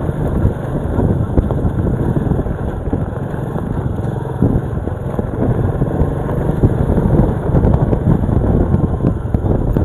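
Honda XRM 125 FI's single-cylinder four-stroke engine running while riding, with wind buffeting the microphone.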